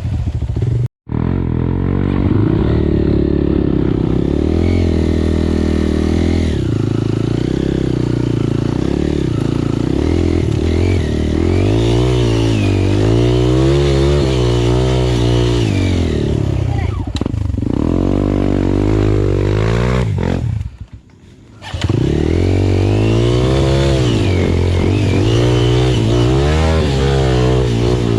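Trail motorcycle engine revving up and down over and over, the pitch rising and falling every second or two. The sound drops out briefly about a second in and again for under a second around two-thirds of the way through.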